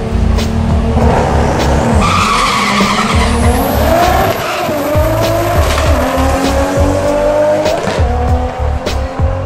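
Turbocharged Toyota 2JZ straight-six in a Supra accelerating hard, its pitch rising about two seconds in, with tyre squeal, over background music with a steady beat.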